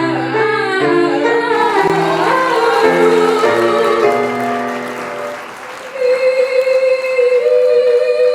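Two voices singing a comic duet on 'meow' with piano accompaniment, ending on a long held note. Applause rises under the final note.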